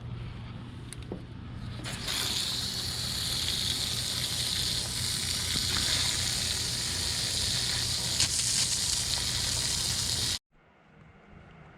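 Water running steadily from an open tap during a flush of the water lines, a hiss that starts about two seconds in, over a steady low hum. It cuts off abruptly near the end.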